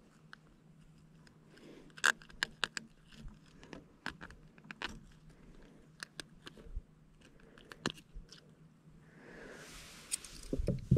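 Scattered sharp clicks, knocks and light scrapes of gear being handled in a kayak, with a short rush of noise building near the end.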